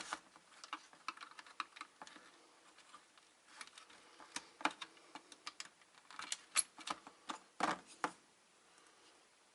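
Irregular small clicks and taps of plastic and metal parts being handled and pried as a surge-protector piece is worked out of a UPS's housing. A few louder knocks come in the second half, then it goes quiet near the end.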